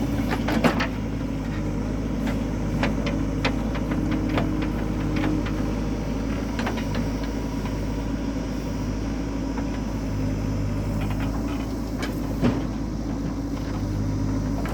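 JCB 3DX backhoe loader's diesel engine running steadily, with scattered short knocks over it, the loudest about half a second in and near the end.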